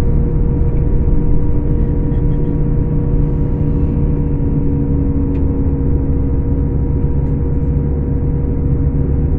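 Scania K410 coach's diesel engine running at a steady pace, a deep drone with a steady whine over it.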